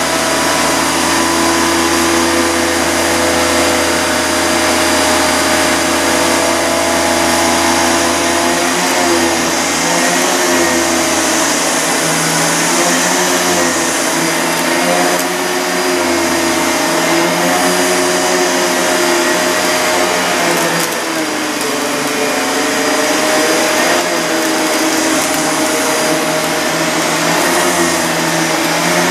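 Panasonic MC-CG885 vacuum cleaner running steadily while picking up dog hair, its motor tone wavering slightly now and then.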